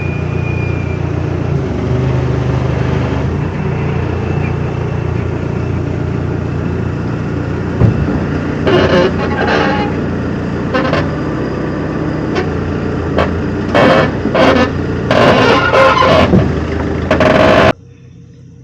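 A motor vehicle's engine running steadily with a low rumble. In the second half it is broken by a series of louder bursts of noise, and it all cuts off suddenly near the end.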